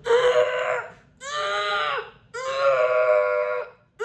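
A woman's voice making three held, straining vocal sounds, about a second each with short gaps, the pitch rising and falling. It is the bearing-down effort noise of pushing as if on the toilet, used to find a harsh, gruff vocal onset.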